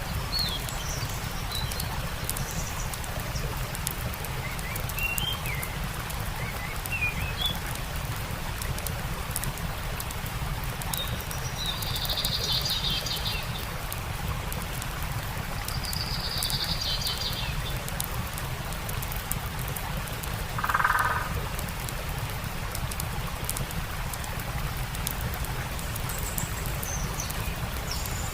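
A stream running steadily with a campfire crackling in fine, quick ticks, while birds chirp now and then in short high trills. About three-quarters of the way through comes a lower, pulsed call, the loudest sound here.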